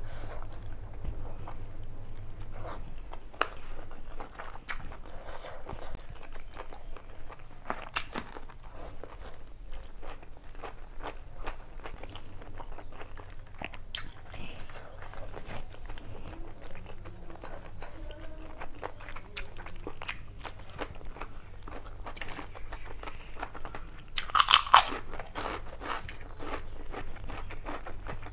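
Close-miked chewing of mutton biryani eaten by hand: wet mouth and lip clicks with soft crunching, and a louder crunchy bite about 24 seconds in.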